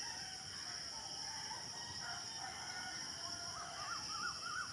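Faint background of a steady high insect drone, with distant bird calls wavering underneath that grow a little stronger near the end.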